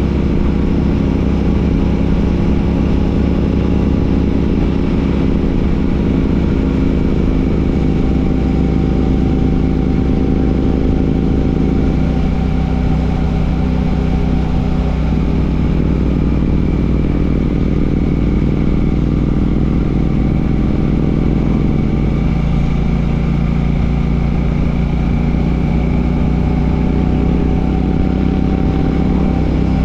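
Royal Enfield Classic 650's parallel-twin engine, breathing through an aftermarket Ngage exhaust, running under way on a ride. The engine note falls and climbs again with throttle and gear changes: about twelve seconds in, around fifteen seconds, and again a little past twenty seconds.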